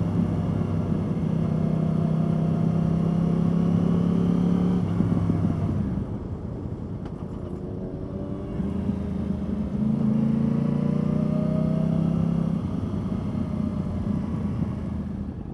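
Yamaha R1 inline-four motorcycle engine running under way, its pitch rising and falling with the throttle. It drops back and runs quieter about six seconds in, then picks up again about three seconds later.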